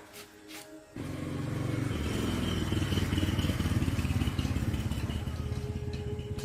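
Small motorcycle engine catching about a second in and running with a rapid, even beat, growing louder over the next second before holding steady.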